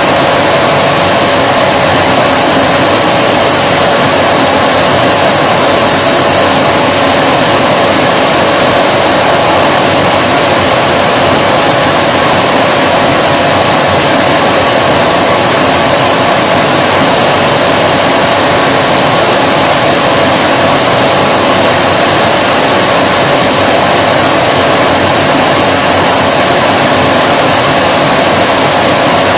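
Vacuum cleaner motor running continuously: a steady whine over loud rushing air that does not change.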